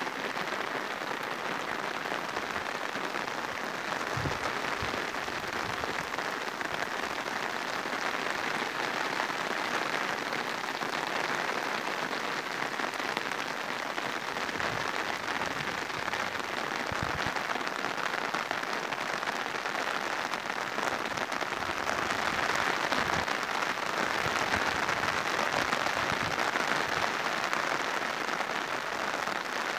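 Steady rain falling, a continuous even hiss with a few low thuds from heavier drops, growing a little louder about two-thirds of the way through.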